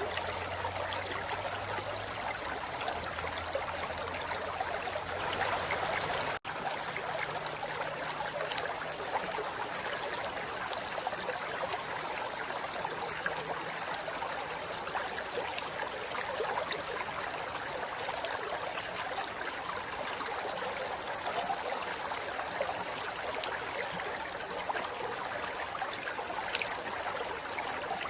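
River water rushing and splashing over rocks in a steady flow. The sound briefly cuts out for an instant about six seconds in.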